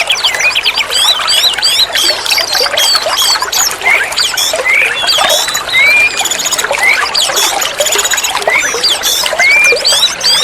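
Oriental magpie-robin (kacer) singing a dense, rapid run of varied whistles, slurred notes and chirps, over a steady background of trickling water.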